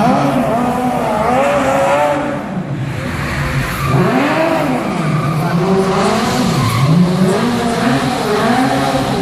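Stunt cars fitted with 1300cc motorcycle engines, revving up and down over and over as they manoeuvre, with tyres skidding.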